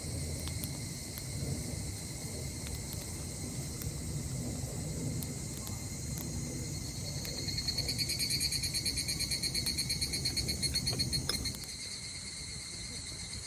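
Night insect chorus: steady high-pitched trilling, joined from about seven seconds in by a louder pulsing insect call, about six pulses a second, that stops abruptly near eleven and a half seconds.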